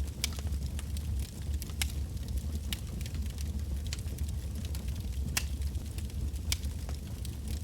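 Wood campfire burning, with irregular sharp crackles and pops from the burning logs over a steady low rumble of the flames.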